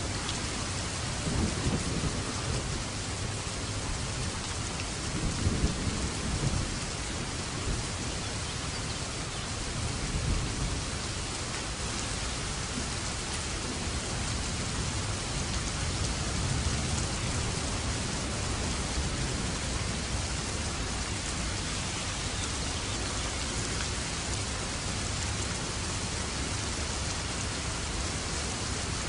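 Steady heavy rain falling, with low rolls of thunder rumbling in the first several seconds, the strongest about five to six seconds in, then fading to rain alone.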